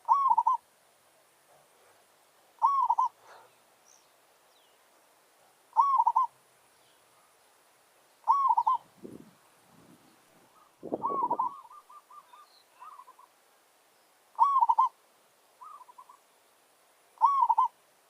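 Zebra dove cooing: a short phrase of quick, rolling coos repeated about every three seconds, seven times. About eleven seconds in, one phrase runs longer with a string of trailing staccato notes. A couple of low thuds sound around nine and eleven seconds.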